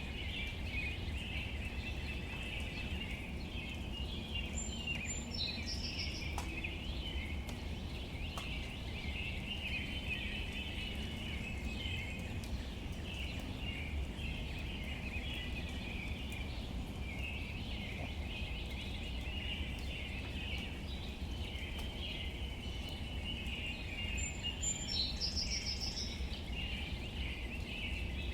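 Outdoor nature ambience: a steady, dense high chorus of calls over a low rumble, with a few faint ticks. A bird gives a short whistled call ending in a trill, about five seconds in and again near the end.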